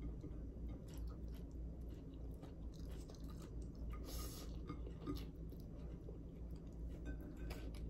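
Chewing and wet mouth sounds of a person eating rice and boiled bitter gourd by hand, with small irregular clicks and a short burst of noise about four seconds in, over a steady low hum.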